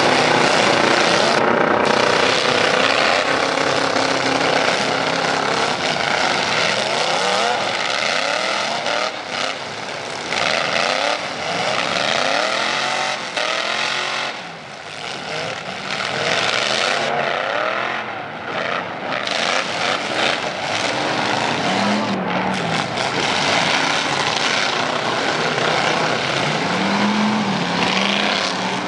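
Several pickup truck engines with loud exhaust pipes racing, revving up and down over one another, with two clear rev swells near the end.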